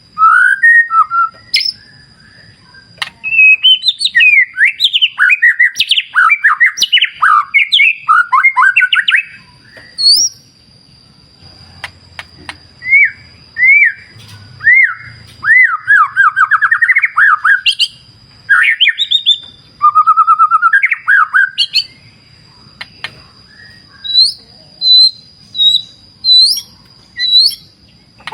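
White-rumped shama (murai batu) singing: loud, varied whistled phrases that glide up and down in pitch, in bursts with short pauses between them, over a thin steady high-pitched tone.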